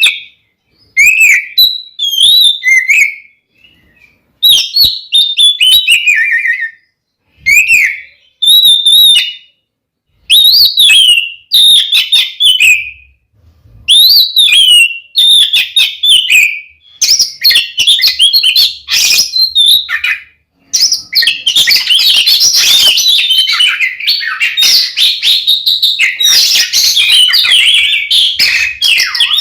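Oriental magpie-robin (kacer) singing its loud, aggressive fighting song. It starts as short whistled phrases with pauses between them, and about two-thirds of the way through becomes an unbroken stream of song.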